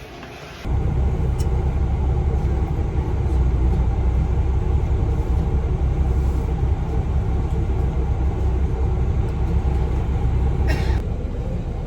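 Steady low rumble of a moving road vehicle, heard from inside. A short hiss comes near the end.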